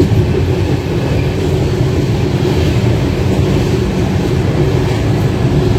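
Passenger train running at speed, heard from inside the coach: a steady, low rumble of wheels and carriage.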